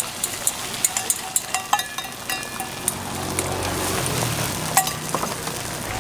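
A utensil clinking against a bowl about four times a second, as when beating eggs, then from about three seconds in a steady, swelling sizzle of food frying on a griddle.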